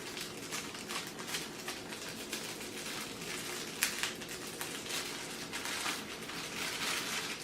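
Packaging rustling and crinkling as a small part is unwrapped by hand, with one sharp click about four seconds in.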